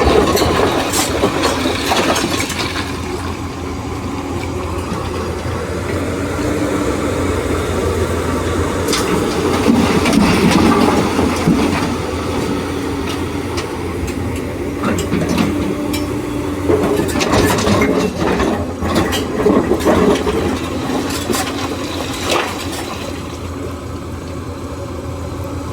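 Excavator's diesel engine running steadily, its note rising and falling as the hydraulics work, with scattered clanks and knocks.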